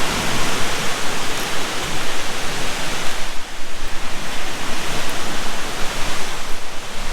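Loud, steady rush of falling water from a waterfall swollen by rain, dipping briefly about three and a half seconds in.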